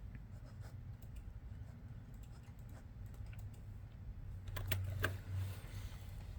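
Typing on a computer keyboard: scattered, irregular keystrokes, with a few louder key presses close together just under five seconds in, over a low steady hum.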